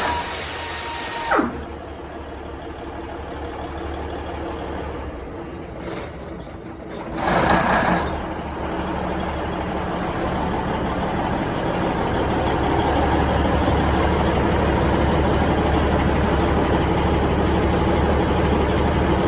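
Cummins 855 diesel engine of a Budd RDC starting up and running. A rising starter-like whine cuts off about a second and a half in. The engine then runs steadily, with a brief loud burst of noise about seven seconds in, and grows a little louder near the end. This is its first run after a transmission oil cooler replacement.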